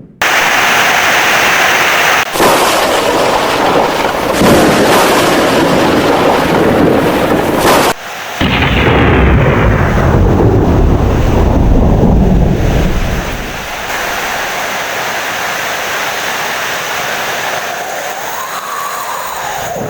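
Heavy rain with thunder. A long, low thunder rumble comes in about eight seconds in and dies away over several seconds, leaving steady rain.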